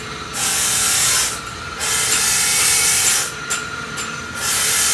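Loud hissing noise in three long bursts, each about a second or more, with brief pauses between.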